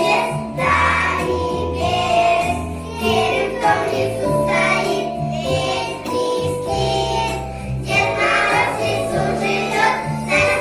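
Children singing a New Year song together over an instrumental backing track.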